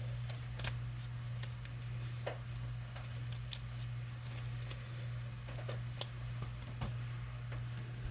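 Trading cards being handled, flipped and slid against one another: scattered light clicks and rustles over a steady low hum.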